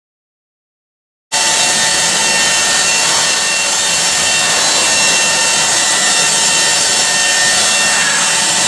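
Silence for about the first second, then a power abrasive grinding against the weld seam of a metal washing machine housing: a steady, even rasp with a faint whine over it, as the weld is dressed flush.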